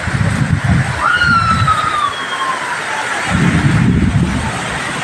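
Steady rain hiss with gusts of wind buffeting the microphone. About a second in, a single whistle-like tone slides downward for about a second and a half.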